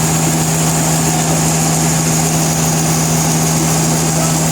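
Sawmill machinery running steadily with a constant low hum and a high whine, no change in load.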